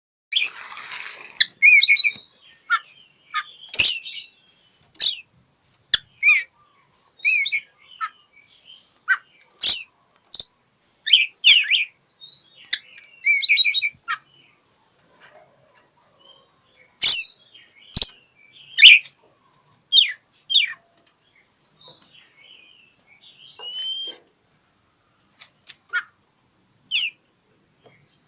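Oriental magpie-robin (kacer) singing: short, varied, sharp whistled phrases and calls in separate bursts with brief pauses between them, growing sparser in the last few seconds.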